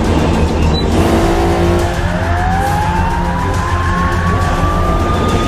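A car engine revving up, its pitch climbing steadily over about three seconds, over music with a heavy bass beat.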